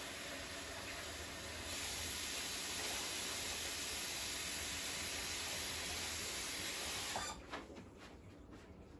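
Water running steadily from a kitchen tap, turned up about two seconds in and shut off sharply near the end, followed by a few light clicks.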